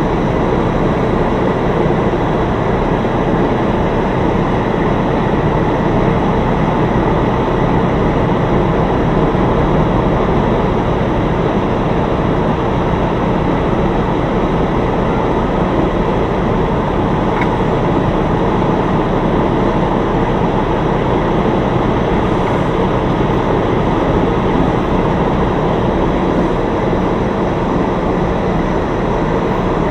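Steady, even rumble of a semi truck's diesel engine and cab noise, heard from inside the cab.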